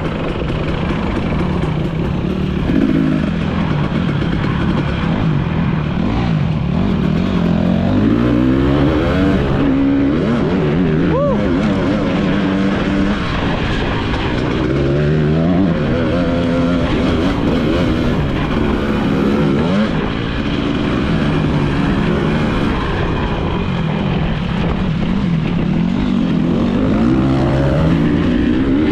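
2022 Husqvarna TE300i's two-stroke single-cylinder engine being ridden hard off-road, revving up and falling back over and over as the throttle is worked and the gears change.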